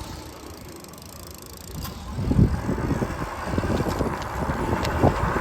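Wind and road rumble from riding e-bikes, quieter at first and growing louder and gustier about two seconds in, with a few scattered clicks.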